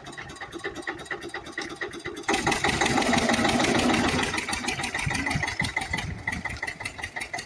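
Eicher 242 tractor's diesel engine running with an even chug. It gets louder about two seconds in, holds for a couple of seconds, then eases back.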